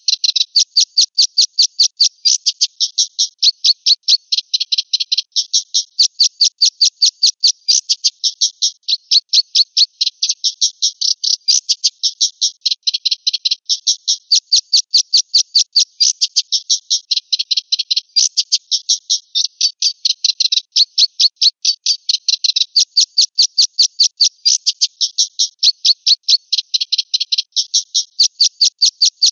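Black-winged myna (jalak putih) calling in a fast, even chatter of short high notes, about four or five a second, in phrases of a couple of seconds repeated over and over.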